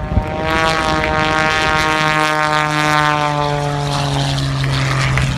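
Custom-built aerobatic biplane's piston engine and propeller going past, the drone sliding slowly down in pitch as it passes.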